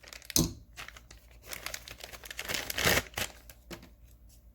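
Crinkling and rustling of things being handled, with irregular clicks and knocks. The loudest rustles come about half a second in and again near three seconds in.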